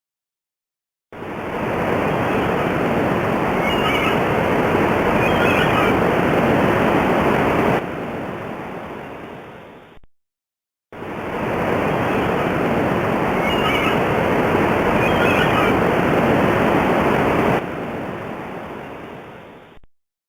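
A recording of steady rushing noise, like surf or running water, with a few faint bird chirps in it, played twice in a row. Each run lasts about nine seconds, drops in level near its end and fades out.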